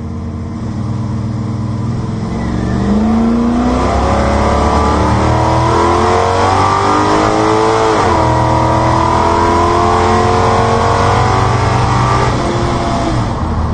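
Engine of a home-built 1963 drag car heard from inside its cabin during a full-throttle drag-strip pass. It idles at the line, launches about three seconds in with revs climbing, drops sharply at a gear change about eight seconds in, climbs again, then falls away near the end as the driver lifts off.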